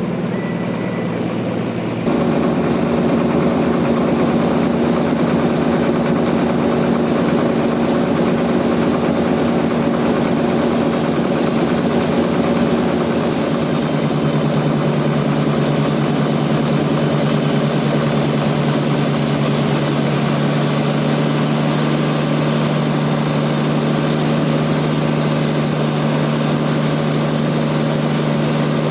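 Sawmill machinery engine running steadily at a constant pitch. The sound gets suddenly louder about two seconds in, and a deeper tone joins it about halfway through.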